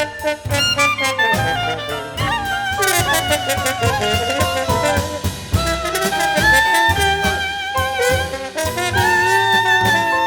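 Small-group jazz recording: a horn line with vibrato, most likely alto saxophone with brass, over walking bass, piano and drums with cymbals.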